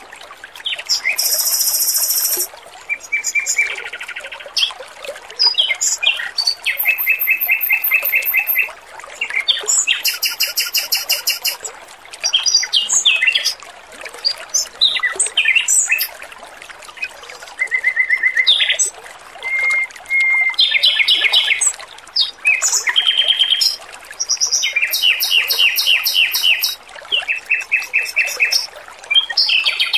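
Male red-billed leiothrix (Pekin robin) singing one phrase after another, each a second or two of fast repeated notes, some high and some lower, with short gaps between them. Water trickles faintly underneath.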